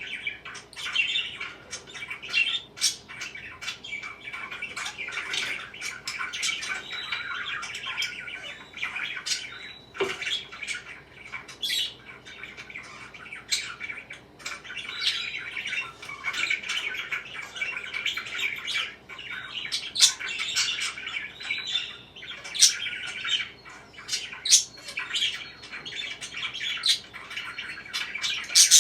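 Pet parakeets chirping and chattering continuously, with many short, sharp calls breaking through the steady warble.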